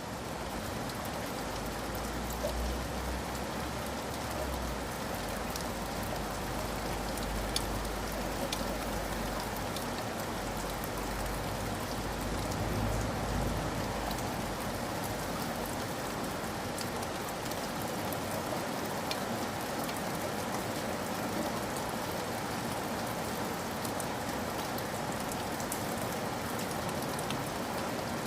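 Steady rain falling on a surface, with scattered sharp drips ticking through it. A low rumble underneath dies away about twelve seconds in.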